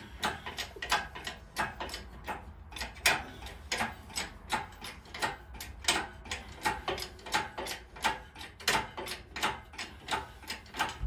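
A ratcheting mechanism clicking over and over, about three sharp clicks a second at an uneven pace, as it is worked through repeated strokes.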